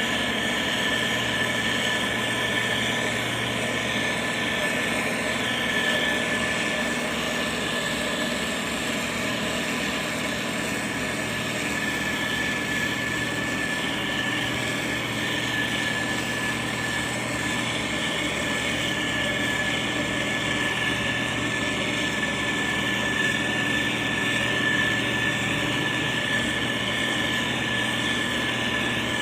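Motor grader diesel engine running steadily under load, with a steady high-pitched whine over the engine note.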